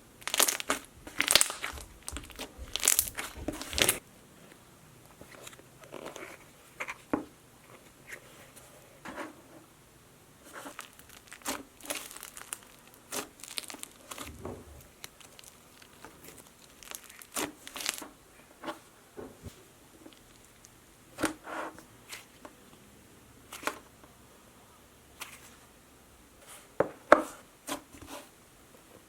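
Slime containers and slime being handled: irregular plastic clicks, crinkles and crackles, densest and loudest in the first four seconds, then scattered.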